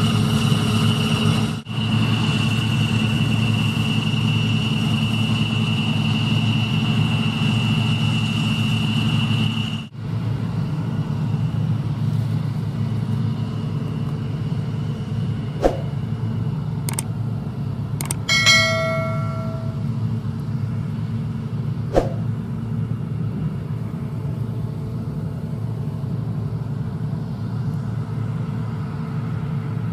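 Heavy diesel farm machinery engines running steadily, with a high steady whine over the drone for the first ten seconds. The sound changes abruptly twice, and later a few sharp clicks and a short ringing tone of about a second are heard.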